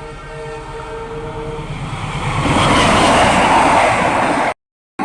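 CC206 diesel-electric locomotive approaching with a held multi-tone horn blast that ends about a second and a half in, its rumble growing. From about two and a half seconds in, the train passes close by with a loud, steady rush of engine and wheels on rail. The sound cuts out briefly near the end.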